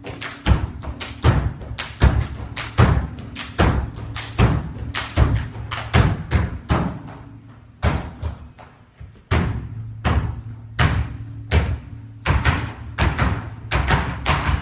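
A quick, uneven run of thumps and taps, several a second, over a low steady hum, with a short lull in the middle.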